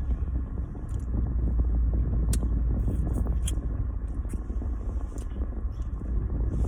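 Low, steady rumble of a car interior, with a few short clicks scattered through it.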